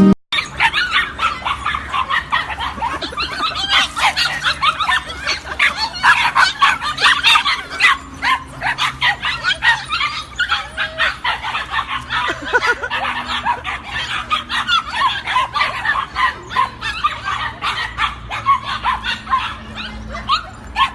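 A dog yipping and barking in quick succession, high-pitched and almost without pause.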